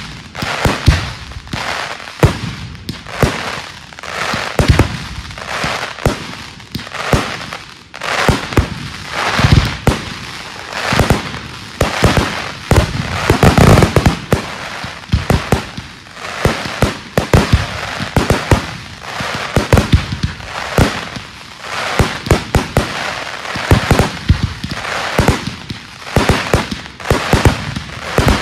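Fireworks display: a rapid, continuous string of shell bursts and bangs with crackling, building to a dense cluster of overlapping bursts about halfway through.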